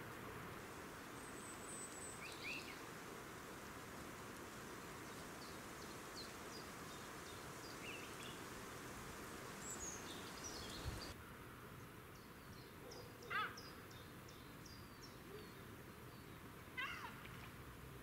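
Wild birds calling over steady background noise: scattered short, high chirps, and two louder calls about 13 and 17 seconds in, the second falling in pitch.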